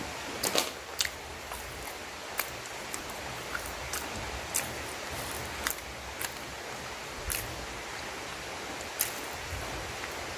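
A person eating tough free-range chicken offal close to the microphone: short wet mouth clicks and smacks at irregular intervals, about one every second or so, over a steady hiss.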